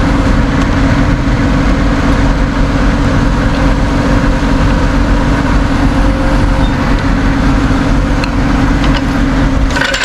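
Tow truck engine and winch running steadily under load, hauling a car up. The drone cuts off just before the end.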